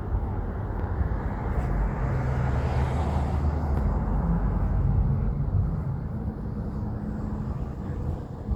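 Big truck's diesel engine running loud as it drives past, swelling to a peak a few seconds in and then easing off.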